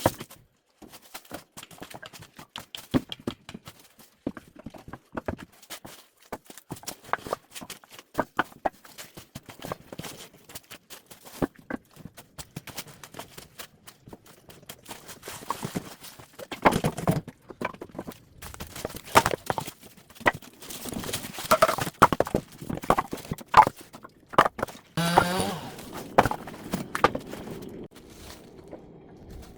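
Firewood being handled: irregular hollow knocks and clatter of wooden logs striking one another, busier and louder in the second half.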